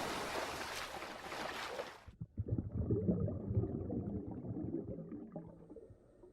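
Cartoon sound effect of a body splashing into water: a hissing splash that fades and cuts off about two seconds in, then softer underwater bubbling and gurgling that dies away near the end.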